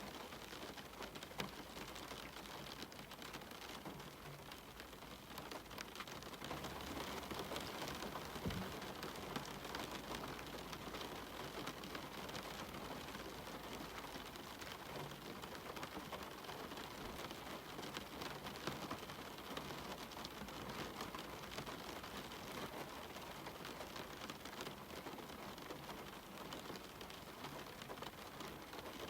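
Steady rain falling, an even hiss peppered with individual drops ticking close by; it grows a little louder about six seconds in.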